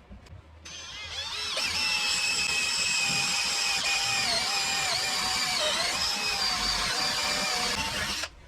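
Electric motor, likely a reused washing machine motor, spinning up to a high steady whine. The pitch dips briefly a few times midway, as when something is pressed against it, and the sound stops suddenly near the end.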